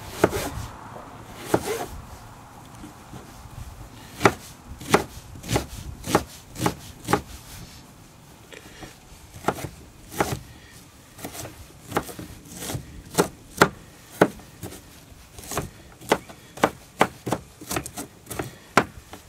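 Kitchen knife dicing a red onion, its blade knocking sharply on the cutting board in irregular strokes, with a short lull about halfway through.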